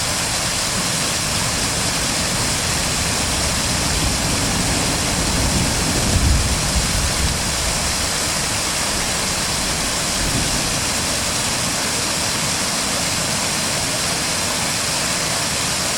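Fast-flowing stream water rushing steadily, with a brief low rumble about six seconds in.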